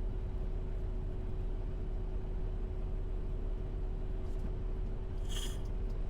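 Semi truck's engine running with a steady low rumble and a faint hum, heard from inside the cab, with a brief hiss about five seconds in.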